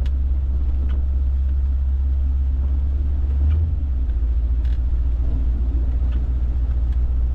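Car driving along, a steady low engine and road rumble that shifts in pitch about three and a half seconds in.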